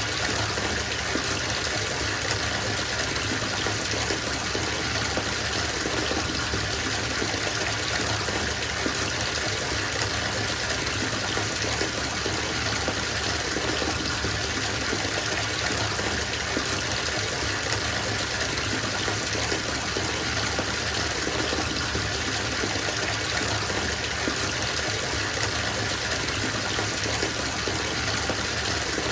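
Bathtub filling from the tap: a steady gush of water pouring into the tub, even and unbroken.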